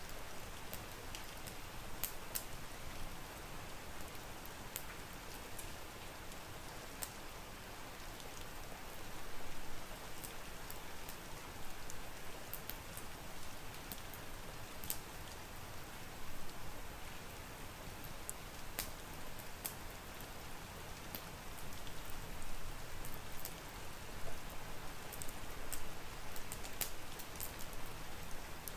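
Steady rain mixed with a wood fire: an even hiss broken by scattered sharp crackles and pops.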